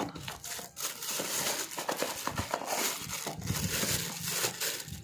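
Handling noise as shotgun cartridges are moved about and spread out: a crinkling rustle full of small clicks, with no clear rhythm.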